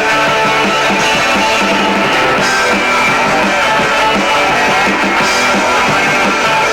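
Rock band playing an instrumental passage between vocal lines of a song: electric guitar and drum kit with a steady beat.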